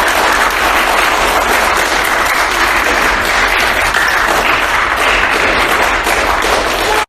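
An audience applauding loudly and steadily, a dense crackle of many hands clapping that cuts off abruptly at the end.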